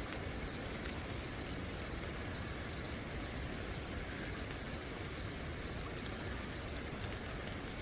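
Steady rain falling at night, an even hiss, with crickets chirping faintly and continuously above it.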